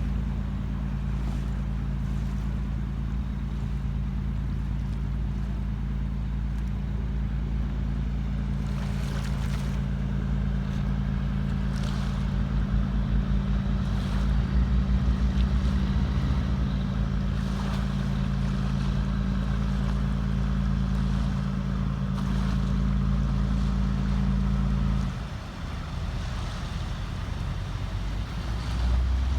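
Ferry boat's engine running at a steady drone with water wash, then easing off abruptly about 25 seconds in; another low engine note comes in near the end.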